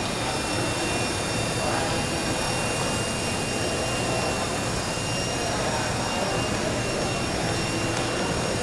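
Walkera Lama electric coaxial RC helicopter in flight: a steady whirr from its small motors and rotors, with a faint high-pitched whine held level throughout.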